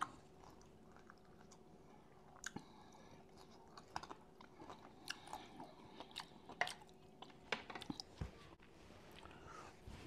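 A person chewing a final mouthful of breakfast food, close to the microphone. The sound is faint, with irregular wet mouth clicks and smacks a few times a second.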